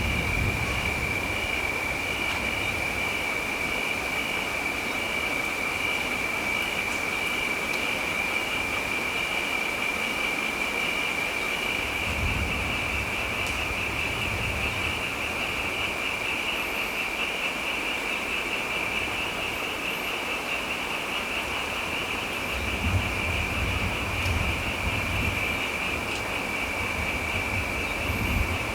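Steady rain with low rumbles of distant thunder twice, once in the middle and again near the end, under a continuous high-pitched trilling chorus of night creatures.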